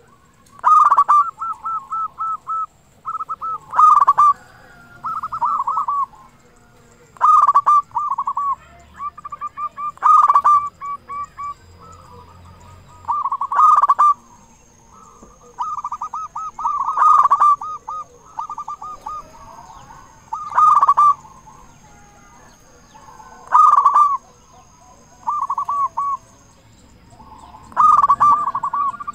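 Zebra dove (perkutut) with a big voice cooing over and over: phrases of rapid repeated notes, each starting with a loud note and coming back about every three seconds.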